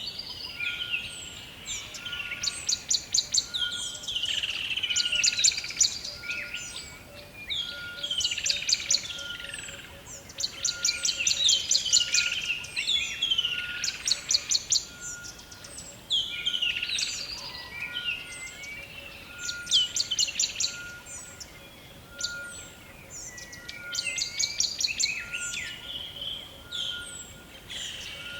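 Rainforest chorus of many birds calling and singing over one another, with a fast ticking song repeated every couple of seconds. A steady pulsing tone near 1.3 kHz, about two beats a second, runs under it, typical of an insect or frog chorus.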